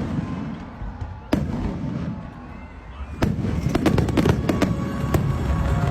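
Fireworks going off: two single sharp bangs, then from about three seconds in a dense run of rapid crackling pops.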